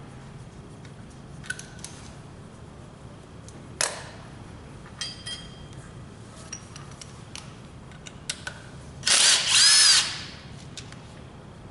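A power tool whirs for about a second near the end, its pitch rising and then falling, after scattered clicks and a sharp knock of tools being handled.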